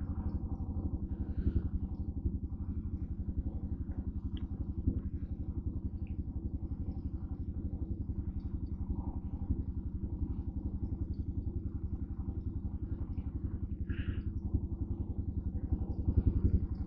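Motorcycle engine idling steadily with an even, regular beat while it warms up before a ride.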